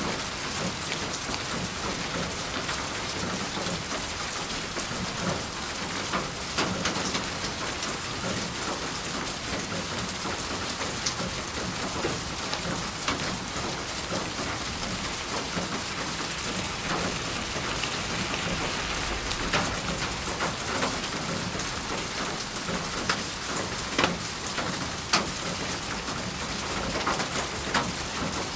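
Steady rain falling, with scattered sharp taps of individual drops hitting a surface close by.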